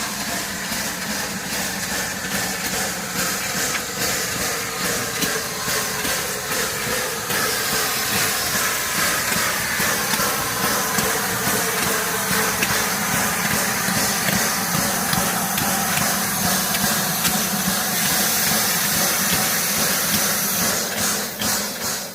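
Steam locomotive 34028 Eddystone, a rebuilt Bulleid West Country class Pacific, hauling a charter train past: a loud, continuous rush of steam and hiss mixed with train running noise.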